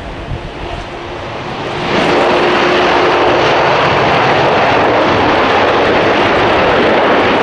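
Boeing 747-400 freighter's four jet engines roaring. The roar rises sharply about two seconds in, then holds loud and steady.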